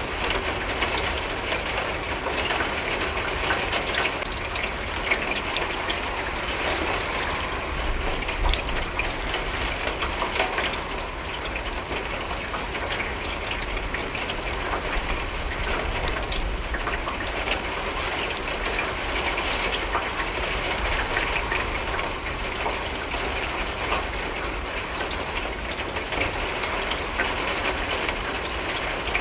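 Steady rain pattering against a window pane, a dense even wash of drops with a low rumble underneath.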